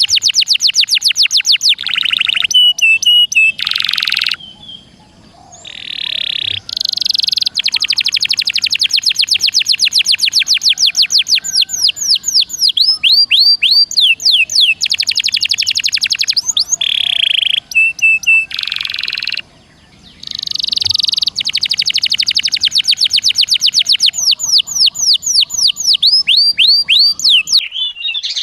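Songbird song in fast, tightly packed trills: long runs of rapidly repeated sweeping notes mixed with short buzzy phrases, with two brief pauses, about five seconds in and about twenty seconds in.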